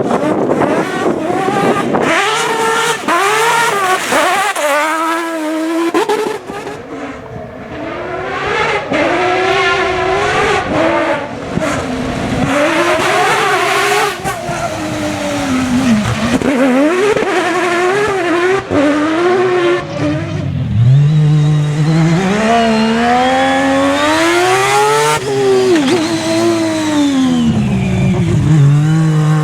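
Rotary engine of a Mazda-powered Proto 205 rally car revving hard through the gears. Its pitch climbs in repeated rises and drops back at each shift or lift, with one long climb past the two-thirds mark and another starting near the end.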